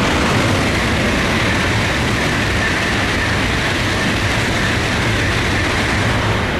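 Tokaido Shinkansen bullet train passing through at high speed without stopping: a loud, steady rushing noise that starts to fade near the end.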